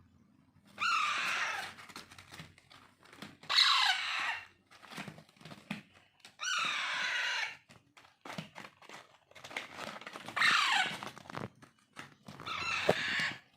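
Alexandrine parakeet chicks giving loud begging calls while being hand-fed. There are about five calls, each about a second long and sliding down in pitch, with soft clicks and scrapes between them.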